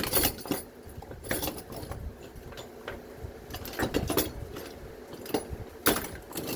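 Metal hand tools clinking and clattering in irregular knocks as they are rummaged through while searching for a pick, with a sharper knock just at the start and another near the end.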